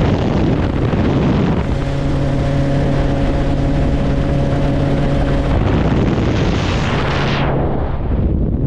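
Helicopter in flight: a steady drone of engine and rotor with a constant low hum under a broad hiss, and wind noise on the microphone. The hiss thins out suddenly near the end while the low drone carries on.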